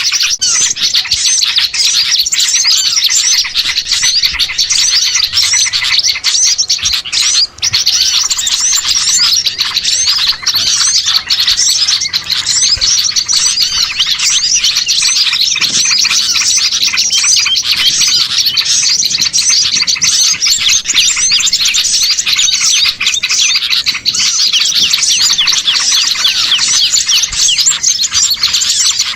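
Dense, continuous chorus of many small songbirds chirping rapidly all at once, a mixed small-bird lure (pikat) recording made to draw wild birds in. There is a brief break about seven and a half seconds in.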